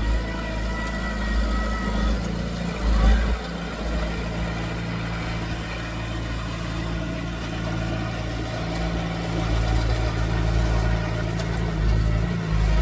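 Diesel engine of heavy earthmoving machinery running steadily, with a brief louder surge about three seconds in.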